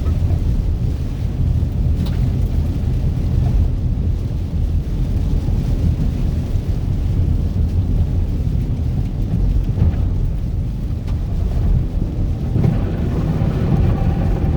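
Steady low rumble of a car driving, heard from inside the cabin: road and engine noise, with a few faint clicks.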